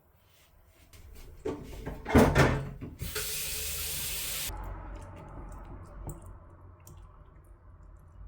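Kitchen tap running briefly into a sink, switched on and off abruptly, after a few knocks and a loud clatter.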